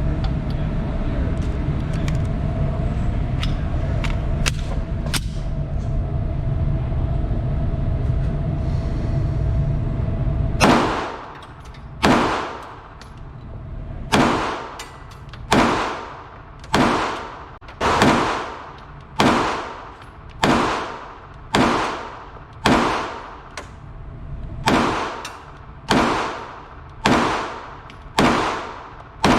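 Steady low rumble for the first ten seconds or so, then a pistol fired at a slow, even pace: about sixteen shots, a little over a second apart, each trailing off.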